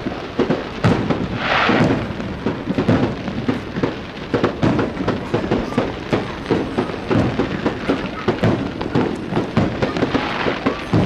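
Aerial fireworks show: a dense, unbroken run of booms and sharp reports. A brighter crackling burst comes about a second and a half in and again near the end.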